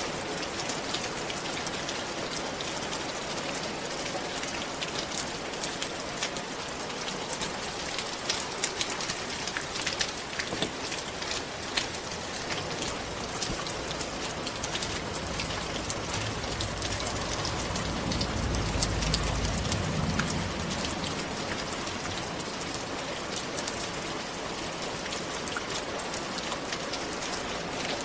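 Steady rain falling on a roof, with many individual drops ticking sharply through the patter. About halfway through, a low rumble swells for a few seconds and fades.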